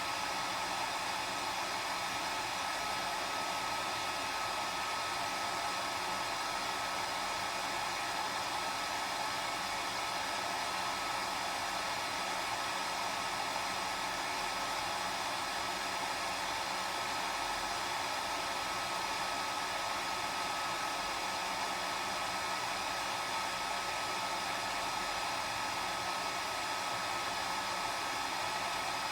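Hair dryer running steadily: a constant even whoosh of air with a steady high whine from the motor and fan.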